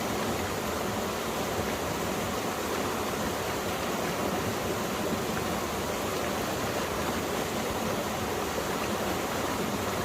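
Mountain stream water rushing and splashing over rocks, a steady, even sound.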